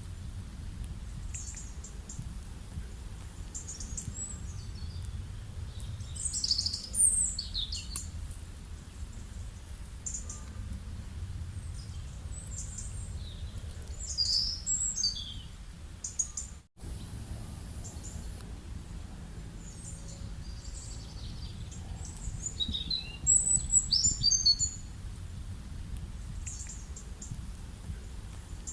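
Wild birds chirping and calling in short, high, quick phrases, loudest about 7, 15 and 24 seconds in, over a steady low rumble of rural background. The sound cuts out for a moment about 17 seconds in.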